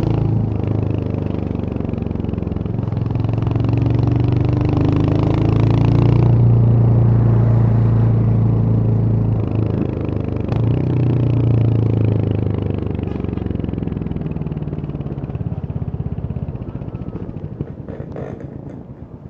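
Royal Enfield Hunter 350's single-cylinder engine running while the bike is ridden, the revs rising and dipping over the first dozen seconds. It then eases off into slower, separate thumps that fade toward the end.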